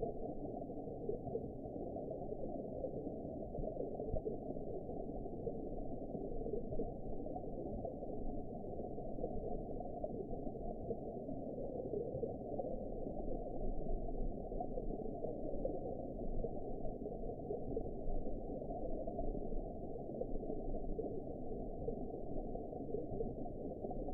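Underwater ambience: a steady, muffled low rush of water with a gentle swell and ebb in loudness, all in the low register.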